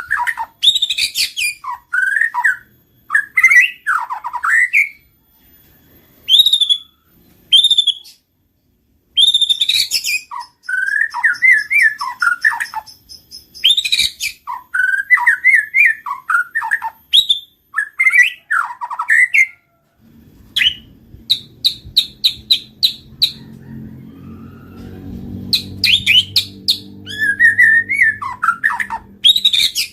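White-rumped shama singing: varied phrases of rising and falling whistles and sharp chips, separated by short pauses. A low hum joins in about two-thirds of the way through.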